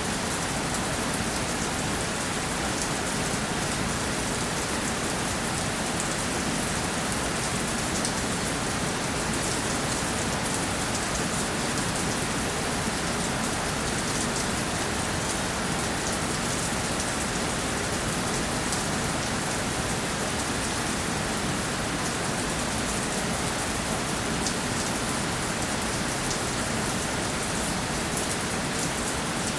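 Steady rainfall, drops pattering on a surface as an even hiss with fine drop ticks throughout.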